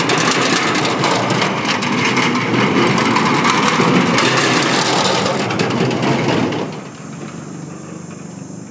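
Motorbikes crossing the Cẩm Kim steel bridge: small engines running under a dense, rapid clatter from the bridge deck. The noise drops off sharply about two-thirds of the way through.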